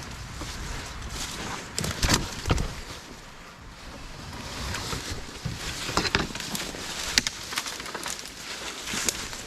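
Dry brush and twigs rustling and crackling underfoot and in hand, with sharp snaps of dead branches about two seconds in and again around six and seven seconds. Wind noise on the microphone underneath.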